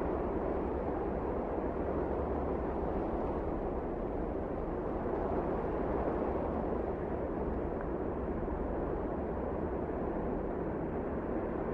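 Wind blowing in a blizzard, a steady rushing noise that swells and eases a little.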